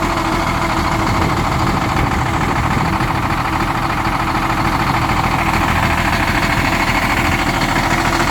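Truck engine idling just after a cold start at −30 °C without a block heater, running steadily but sounding rough and not happy, as a cold-soaked engine does in its first minute.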